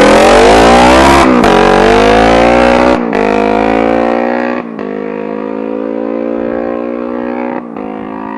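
Kawasaki Ninja motorcycle engine in a homemade dirt bike, running hard on 115 main jets and accelerating: its pitch climbs, dips briefly about a second in as it shifts, and climbs again. It then settles to a steadier, quieter drone, with sudden drops in level about three, four and a half and seven and a half seconds in.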